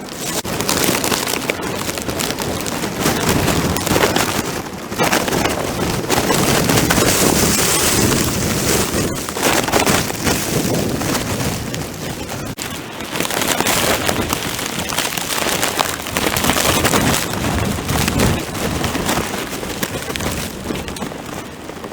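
Plastic bag over the camera crinkling and rubbing against the microphone: a loud, dense crackling that swells and eases.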